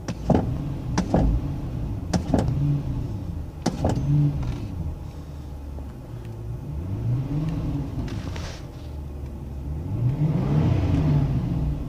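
Infiniti M V8 idling in park and blipped several times, its exhaust note rising and falling with each rev, the largest near the middle and near the end, heard from inside the cabin. Several sharp clicks or knocks sound in the first few seconds.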